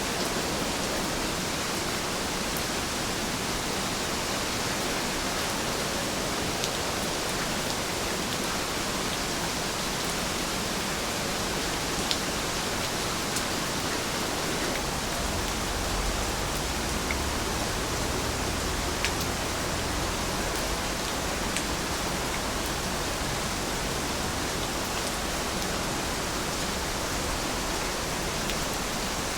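Steady rain falling, an even hiss with scattered sharp drop ticks. A low rumble rises underneath for a few seconds about halfway through.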